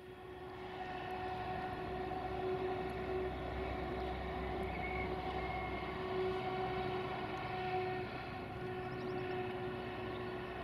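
Train on the line, heard as a steady pitched tone with overtones held over a low rumble. It swells in at the start and then stays level.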